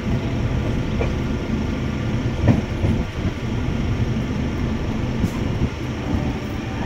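A train running along the track, heard from on board: a steady rumble of wheels and carriage, with a couple of clacks over the rail joints.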